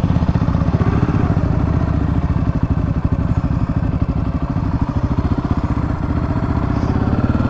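Honda CRF250F dirt bike's single-cylinder four-stroke engine running as the bike is ridden, its revs fairly steady with a brief dip about halfway through.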